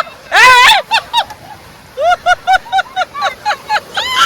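A child's high-pitched shrieks and laughter: one long squeal, then rapid short repeated yelps about five a second.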